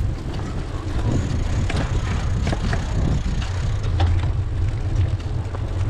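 Bicycle ride: wind buffeting the microphone in a steady low rumble, with tyre noise and scattered clicks and rattles from the bike.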